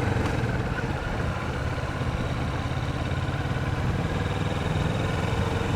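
Kawasaki Vulcan 650's parallel-twin engine running steadily at low revs, idling or rolling slowly with no revving.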